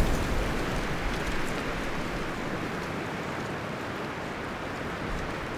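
Wind rushing through forest trees, rustling leaves and branches in a steady noise that gradually fades down.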